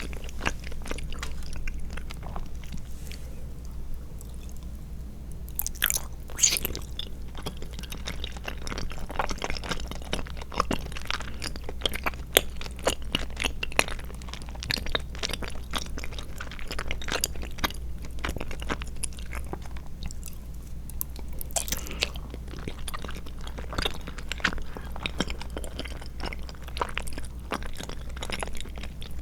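Close-miked chewing of tapioca pearls and jelly: a steady run of many small, irregular mouth clicks over a faint low hum.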